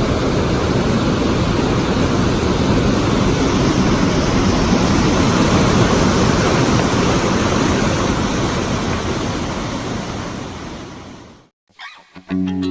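Rushing water of a waterfall formed by rain runoff: a steady, loud rush that fades out about eleven seconds in. A few plucked guitar notes begin just before the end.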